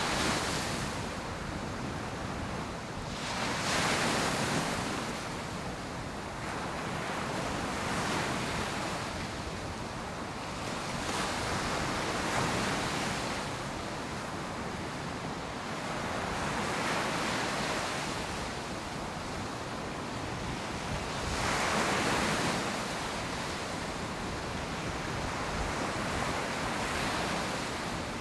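Ocean surf breaking on a beach, an unbroken wash of noise that swells with each wave every few seconds, the biggest breaks about four seconds in and about two-thirds of the way through. A little wind runs under it.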